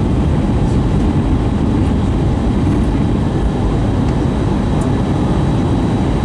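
Steady roar of an Airbus A320 in flight, heard inside the passenger cabin: engine and airflow noise, heaviest in the low end, with a faint thin whine above it.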